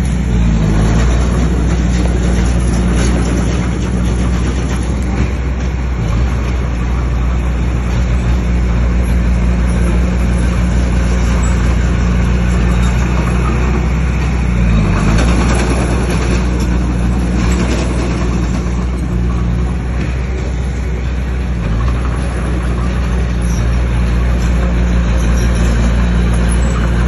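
Bulldozer's diesel engine running hard and steady, its note dipping and shifting a few times.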